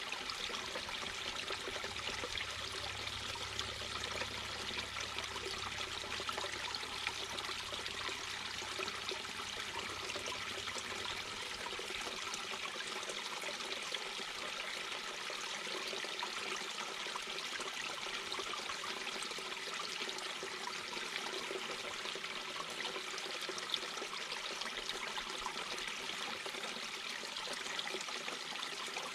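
Mountain brook babbling over rocks: a steady, even rush and trickle of running water.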